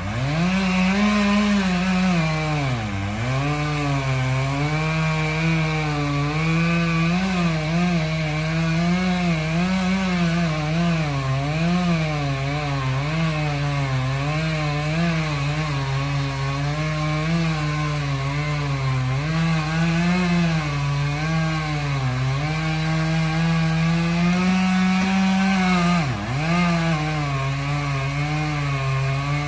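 Chainsaw running at high revs under load, cutting into a large dead tree trunk, its pitch wavering with the cut. It eases off briefly about three seconds in and again near the end.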